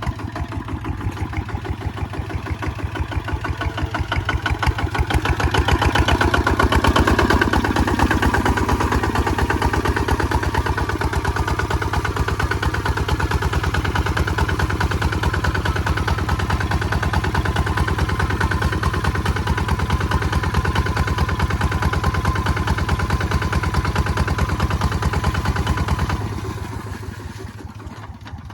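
Kubota ZT155 single-cylinder diesel engine running steadily with a rapid, even chugging beat, growing louder a few seconds in and easing back near the end.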